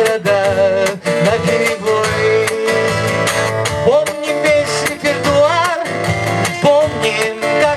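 Live song: acoustic guitar strummed in a steady rhythm, with a bending melody line over it.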